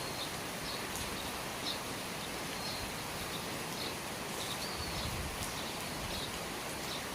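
Steady rain falling, with a bird giving short, high chirps about once a second.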